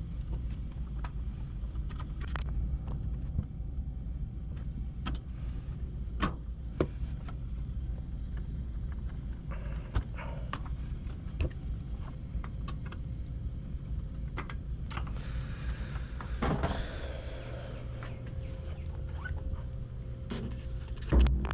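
Scattered small clicks and knocks of plastic wire-harness connectors being worked loose from a washer's main control board, with a longer scrape or rustle of handling a little past the middle, over a steady low hum.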